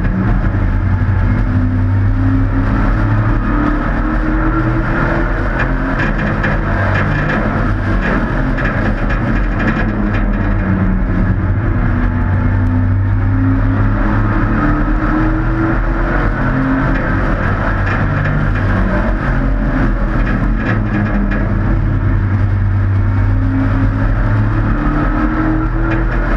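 Hobby-class race trucks' engines running at speed around an oval track, the engine note rising and falling in pitch several times as they lap.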